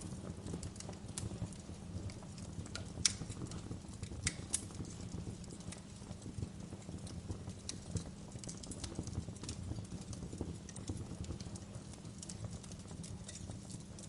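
Wood fire in a fireplace crackling: irregular sharp pops and snaps over a low, steady rumble of burning. The loudest pops come about three seconds and about four and a half seconds in.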